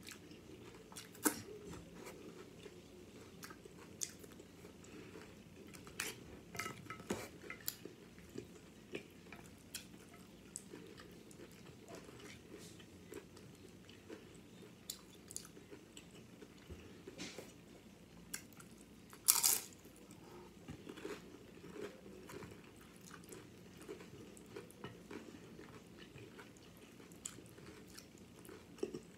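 Close-up chewing and crunching of loaded nachos made with Doritos tortilla chips, with many short sharp crunches scattered through it. One louder, sharper burst comes about two-thirds of the way through.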